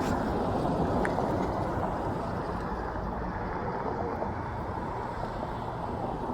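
Steady riding noise from a moving bike: wind rushing over the microphone with a low, even road rumble underneath.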